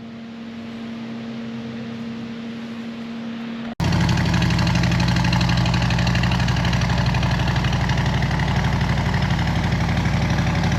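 A steady hum, then from about four seconds in a Harley-Davidson Road Glide's V-twin engine idling loudly with an even pulsing beat.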